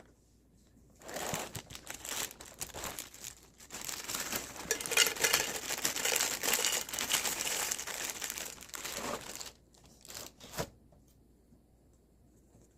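Plastic cereal-bag packaging crinkling and rustling as it is handled for about eight seconds, then two brief rustles near the end.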